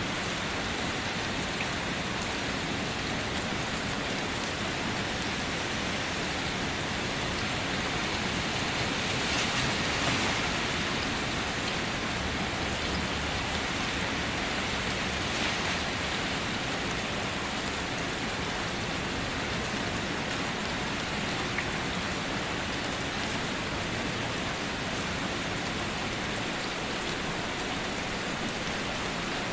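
Steady rain falling on a surface, an even hiss of drops that swells slightly a little before the middle.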